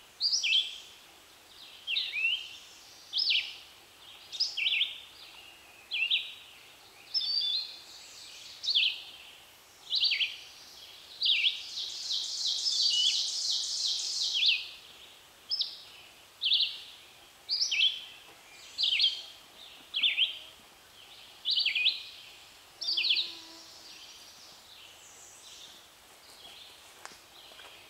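Songbirds singing in spring woodland: short, high song phrases repeated about every second or so, with a faster run of rapid notes lasting about three seconds midway through.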